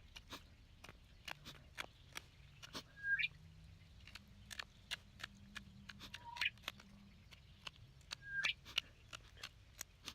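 A bird calling over and over, each call a short note that jumps sharply upward in pitch, repeated about every two to three seconds. Underneath, many small clicks and scrapes of a knife working wood.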